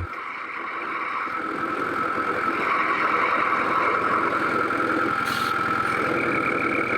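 Railway locomotive running steadily, its sound building over the first two seconds, with a brief high hiss about five seconds in.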